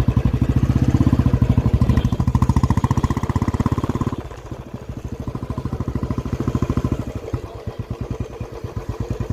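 Royal Enfield motorcycle engine running while ridden, with a rapid, even beat of firing pulses. The engine eases off about four seconds in and runs on more quietly.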